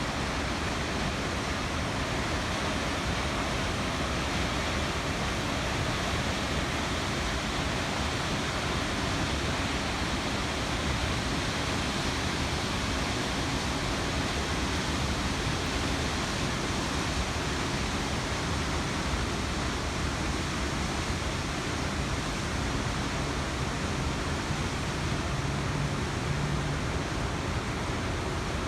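Water rushing from Amagase Dam: a steady, even rush with no breaks.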